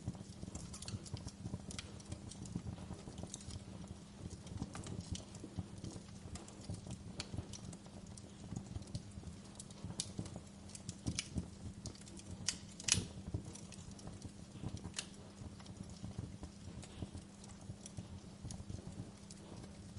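Fire crackling over a low, steady rumble of flames, with irregular pops and snaps; the sharpest pop comes about 13 seconds in.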